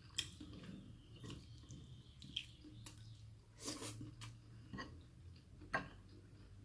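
A person chewing food close to the microphone: soft, irregular smacking and clicking mouth noises, one sharper click about two-thirds of the way through.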